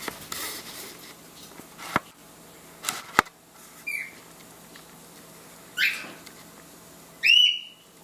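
Cockatiel giving three short chirping calls, the last one the loudest, with its pitch bending. Two sharp clicks come about two and three seconds in.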